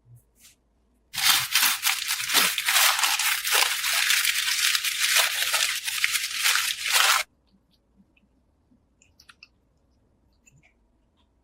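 Harsh, gritty scraping made of rapid strokes, starting abruptly about a second in and cutting off about six seconds later.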